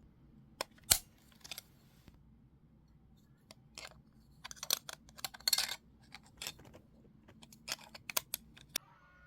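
Small hard objects being handled: an irregular series of clicks, taps and short rattles, the sharpest about a second in and a busier stretch of rustling and clatter in the middle.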